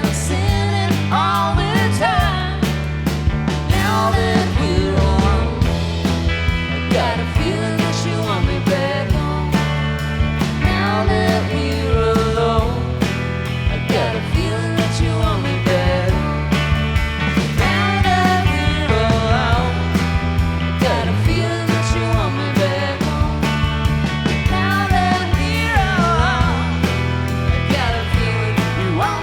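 A live rock band playing an instrumental break, with a steady drum beat and a stepping bass line. Over them, a lead guitar plays bending, gliding notes.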